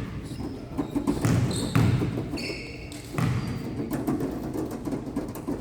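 A basketball bounces on a gym's hardwood floor, a few separate thumps during play, with short high sneaker squeaks. A low murmur of crowd chatter runs underneath.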